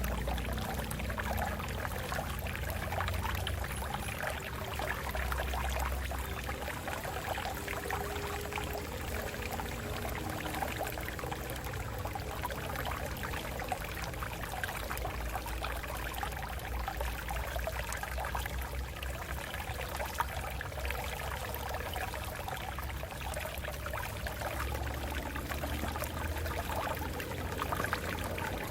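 Shallow water flowing and splashing steadily over rocks, a continuous babbling rush with a low rumble beneath.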